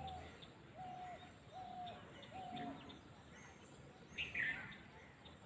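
Birds calling in open country: a run of four short, level hooting notes under a second apart, then a louder, higher call that falls in pitch about four seconds in, with faint chirps throughout.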